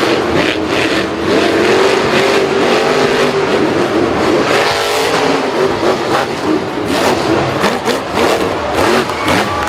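Engine revving hard, its pitch rising and falling, over a dense roar of noise.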